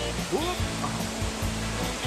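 Waterfall rushing: a steady hiss of falling water, with a brief rising voice near the start.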